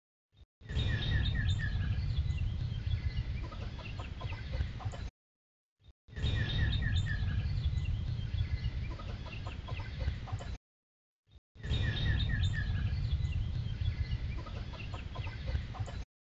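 Woodland ambience in three short segments, each cut off abruptly into dead silence. Each segment opens with a bird calling a quick run of about six notes, followed by scattered fainter chirps, over a steady low rumble.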